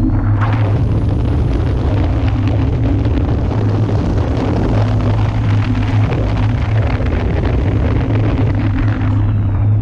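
A steady engine drone with heavy wind rushing over the microphone. The wind noise cuts in abruptly at the start and drops away shortly before the end, while the engine hum carries on.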